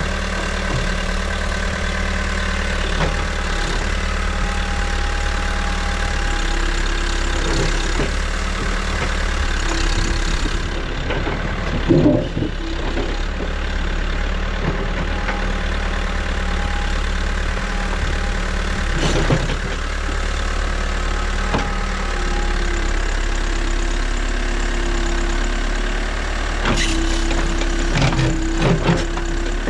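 New Holland backhoe loader's diesel engine running steadily, with short knocks about twelve and nineteen seconds in and several more near the end, and a faint whine that comes and goes.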